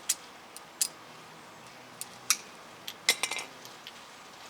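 Metal tools and parts clinking as they are handled: a handful of sharp, irregular clicks, with a quick cluster about three seconds in.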